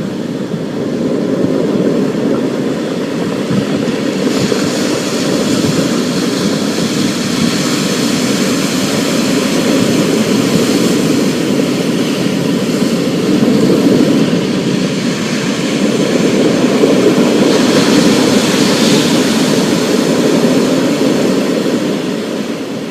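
Storm sound: a continuous low rumble under a hiss of rain, swelling a little in the middle and starting to fade near the end.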